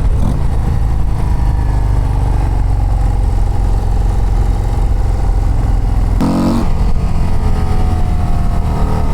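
Harley-Davidson CVO ST's Milwaukee-Eight 121 V-twin engine pulling hard under acceleration on the road, its pitch climbing slowly, with a brief break about six seconds in before it climbs again.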